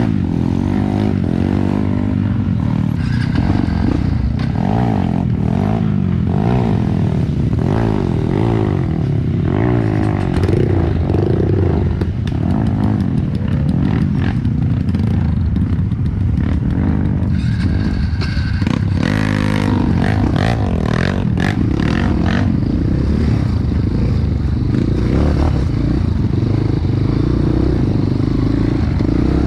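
Trail motorcycle engine running under load, its revs rising and falling over and over as the bike rides a rough dirt track. Knocks and rattles from the bike come through, thickest about two-thirds of the way in.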